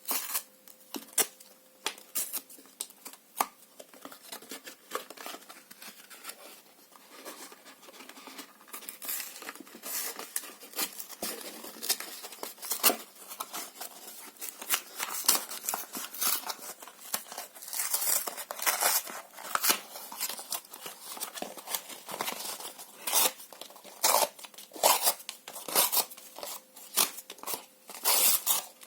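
Paper being torn in many quick short rips, sparse at first and coming faster and louder from about a third of the way in.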